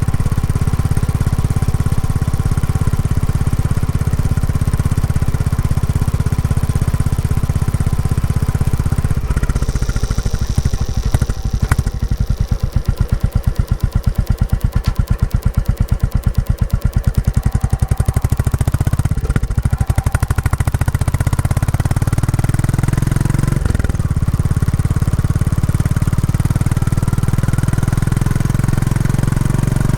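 Royal Enfield Classic 350's single-cylinder engine running through its stock exhaust while riding. About ten seconds in the revs drop to a slow, even thud of separate firing beats for several seconds, then the engine pulls again, with a brief break in the note a few seconds later, like a gear change.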